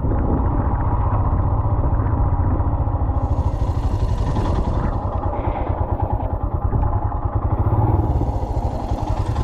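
Motorcycle engine running steadily with a dense low pulse. A rushing hiss rises over it twice, around three seconds in and again near the end.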